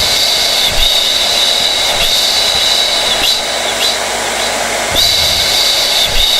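Blow dryer running continuously: a steady rushing of air with a high-pitched whine that wavers and briefly dips every second or so.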